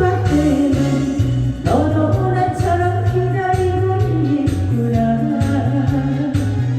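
A Korean trot song sung solo over its accompaniment, with a bouncing bass that alternates between two notes. The voice scoops up into a long held note about a second and a half in.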